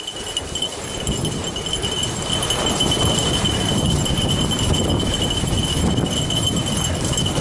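Snow bike rolling over snow as it is pulled along by dogs: a steady crunching, rustling noise of tyres and paws that builds over the first second and then holds, with a thin steady high tone throughout.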